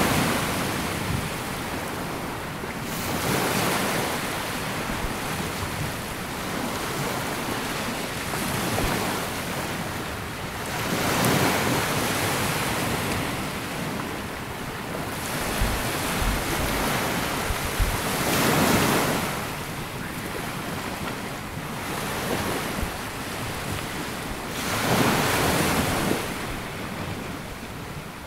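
Sea waves washing onto a sandy beach: a steady surf wash that swells as each wave breaks and rushes up, then ebbs, about five times, every several seconds. Wind rumbles on the microphone now and then.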